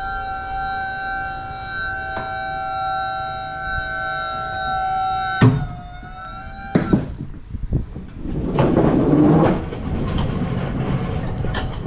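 Box truck's lift gate hydraulic pump motor whining steadily, which stops with a sharp clunk about five seconds in; a short second whine follows. Near the end comes a few seconds of rattling, rumbling noise.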